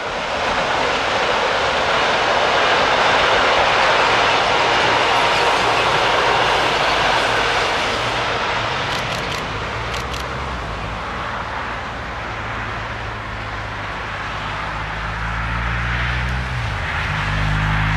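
Rhaetian Railway regional train, red coaches pushed by a Ge 4/4 II electric locomotive, running past on the metre-gauge line: a steady rushing rumble of wheels on rails, loudest in the first half and easing as the train draws away. A few sharp clicks come about nine to ten seconds in.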